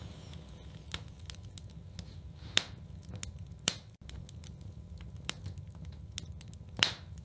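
Wood fire burning in a fireplace: scattered sharp pops and crackles over a steady low rumble of the flames, with the loudest pop near the end.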